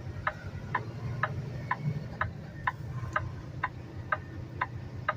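Semi-truck cab indicator flasher clicking steadily, about two clicks a second, over the low steady hum of the truck's diesel engine.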